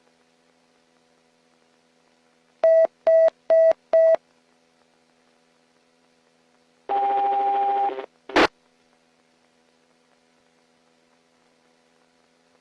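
Police radio tones: four short beeps at one pitch in quick succession, then about a second of buzzy radio noise that ends with a sharp click, over a faint steady hum.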